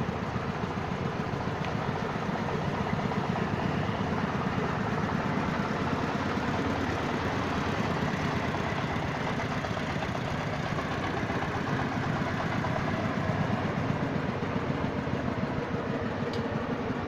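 Diesel engine of a mobile rice mill running steadily, with an even, dense mechanical noise.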